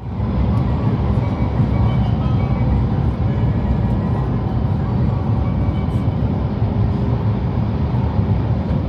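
Steady rumble and rush of a Hayabusa E5-series Shinkansen running at speed, heard inside the passenger car, with faint steady tones above the noise.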